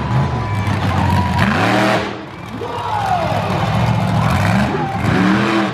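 Monster truck engine revving hard, its pitch swinging up and down several times as the throttle is blipped and held.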